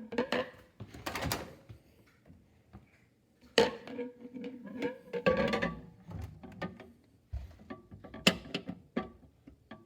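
Irregular clicks, knocks and rattles of things being handled, with several louder knocks spaced over the seconds.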